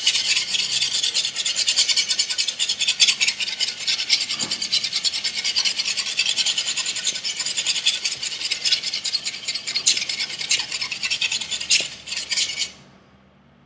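Steel knife edge rasped in rapid, continuous strokes across 320-grit sandpaper, grinding away the secondary bevel (the shoulder of the V-edge) to convex it. The scraping stops abruptly near the end.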